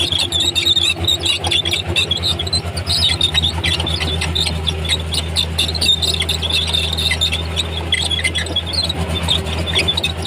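Komatsu D31P crawler bulldozer at work: its diesel engine runs with a steady low drone that grows louder about three seconds in, while the steel tracks give off a rapid string of short, high squeals.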